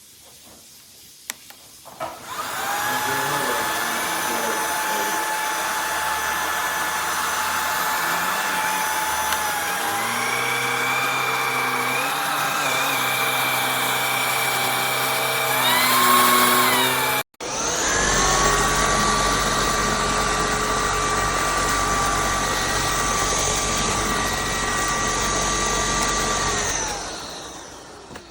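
Shark Pet cordless stick vacuum running: the motor starts up about two seconds in and runs at a steady whine, drops into a lower, fuller note around ten seconds in, briefly rises, then cuts off abruptly. It starts again at once, runs steadily, and winds down near the end.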